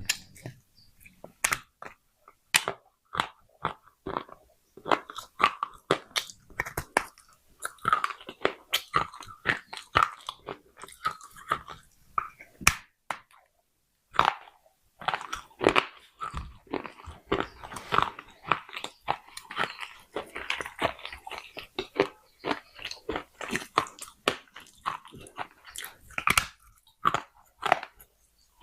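Close-up crunching and chewing of pieces of clay pot: many irregular sharp, brittle cracks as the clay is bitten and ground between the teeth, with a short pause a little before the middle.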